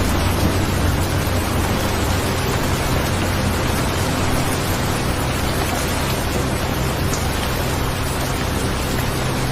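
Steady rain falling, an even hiss with no breaks, with a low steady tone held underneath.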